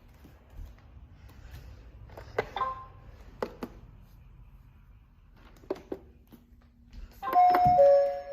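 Robot vacuums being switched on: a few sharp button clicks and a short beep, then near the end a loud two-note falling chime as one of them starts up.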